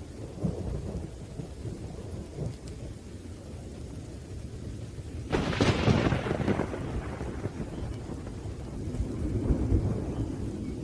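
Thunderstorm: steady rain with low rumbling thunder, a sharp thunderclap about five seconds in that fades back into rumbling, and another swell of rumble near the end.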